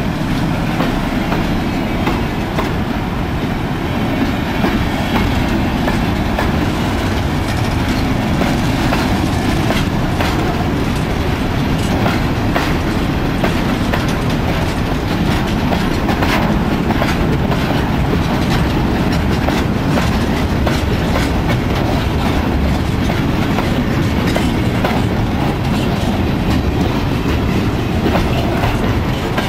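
Freight train wagons (container flatcars and tank cars) rolling past: a steady loud rumble with a constant clatter of wheels over the rail joints.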